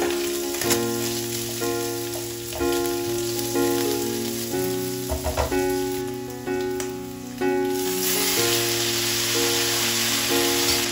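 Garlic, chilli and roasted pork sizzling in rendered fat in a nonstick wok, with a few scrapes and taps of a metal spatula against the pan, over background music of steady held notes. The sizzle swells louder about eight seconds in, as cooked spaghetti goes into the pan.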